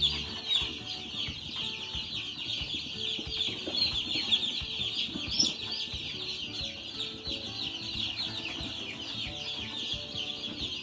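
Dozens of newly arrived Cornish Cross broiler chicks peeping continuously: a dense chorus of short, high, overlapping falling chirps. Low knocks and rustling sound underneath.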